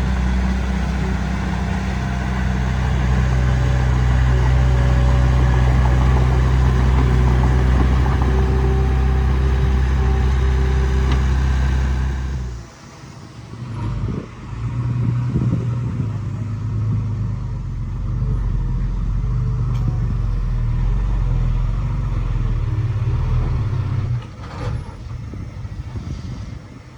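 Heavy diesel engine of earthmoving machinery running steadily under load. It drops away sharply about halfway through, then comes back at a slightly lower level before easing off near the end.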